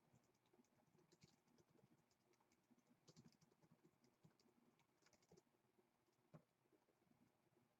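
Near silence with faint, irregular typing and clicking on a computer keyboard.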